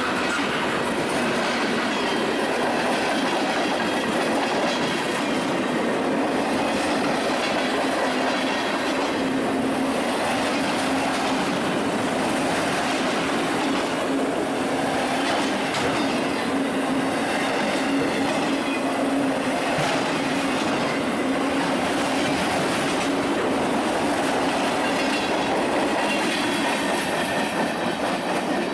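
Railroad cars of a passing train rolling along the rails: a steady, even noise with a low hum, unbroken throughout.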